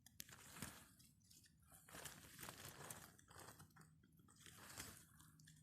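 Faint crunching and crackling of disturbed snow, in several short spells separated by near quiet.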